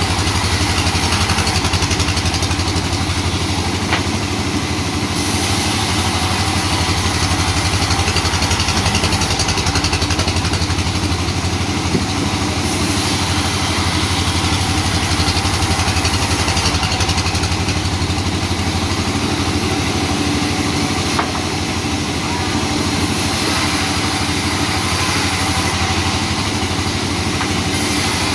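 Sawmill machinery running steadily: a loud engine drone with a broad hiss that swells and eases every few seconds, and three brief sharp knocks spaced several seconds apart.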